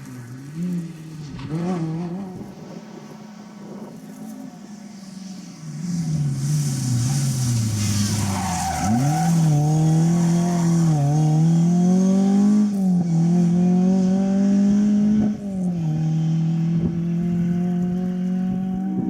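Rally car engine, first faint, then coming close as it brakes for a corner, its pitch falling with a high tyre squeal. Then it accelerates away hard, the pitch climbing and dropping back at three upshifts.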